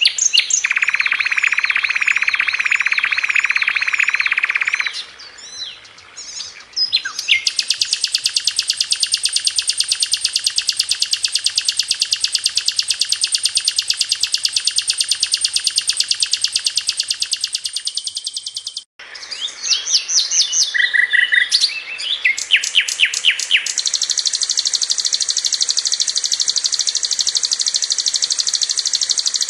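Sikatan londo (brown-chested jungle flycatcher) singing: long, very rapid trills of evenly repeated high notes, broken by sharp whistled chirps and short gliding phrases. The song cuts out abruptly for a moment about two-thirds of the way through, then resumes with quick chirps and another long trill.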